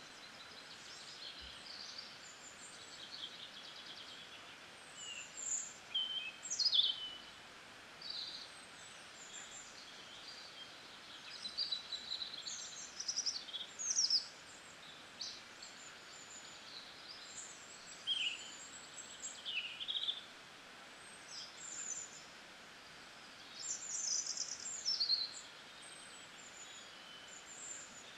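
Birds chirping and singing over a steady background hiss: short high calls, many falling quickly in pitch, coming every second or two.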